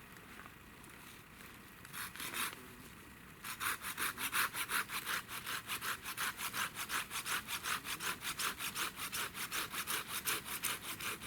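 Hand saw cutting through wood. A few trial strokes come first, then about a third of the way in a steady back-and-forth of quick, even strokes, about four a second.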